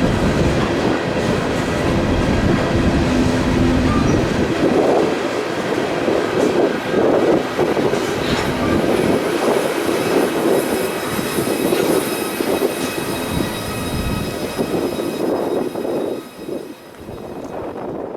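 Freight train cars rolling past on the rails, a steady clattering rumble with a faint high squeal from the wheels. The sound drops off near the end.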